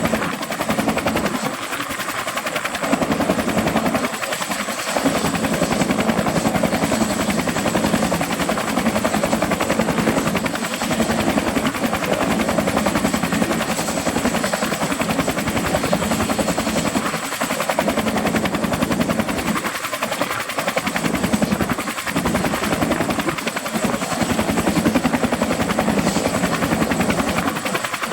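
Bell 212 helicopter running, its two-blade main rotor beating steadily over the noise of its twin turboshaft engines, with a thin steady high whine.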